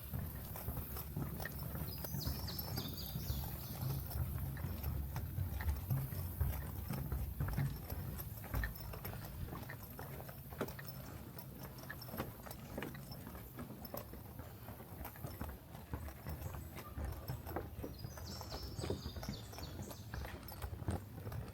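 Footsteps of a person walking a trail: a steady series of short crunching steps over a low rumble. A bird calls twice with a quick run of high notes, once a couple of seconds in and again near the end.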